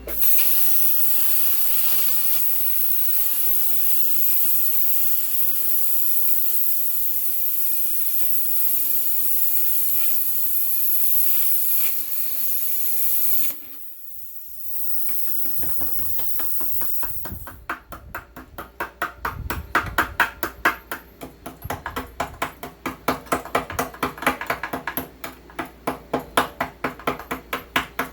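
Plasma cutter hissing steadily as it cuts steel, stopping for about a second midway and starting again. In the last ten seconds it gives way to rapid hammer blows on metal, about three a second.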